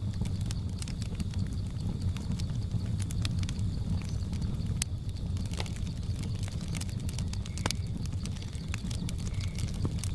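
Wood fire burning, a steady low rumble with many sharp crackles and pops at irregular intervals. Behind it runs a faint, steady, high-pitched drone of jungle insects.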